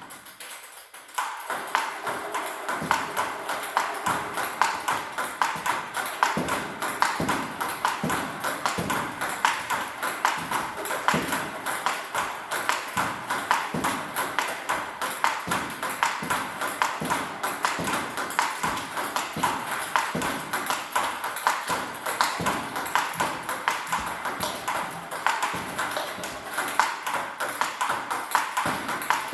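Table tennis multiball drill: a quick, steady run of celluloid balls clicking off rubber paddles and bouncing on the table.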